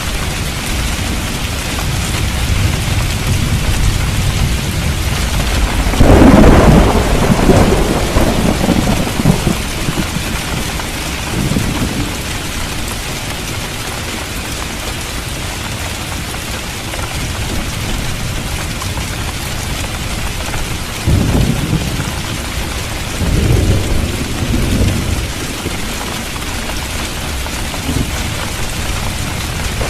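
Steady heavy rain with thunder: a loud rolling rumble about six seconds in, and two more shorter rumbles after about twenty seconds.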